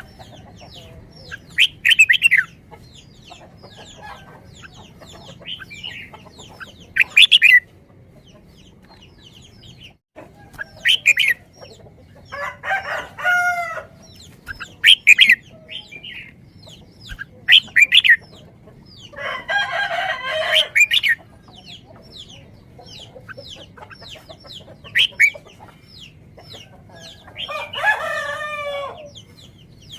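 Birds calling again and again: many short sharp calls, and several longer calls of a second or two each.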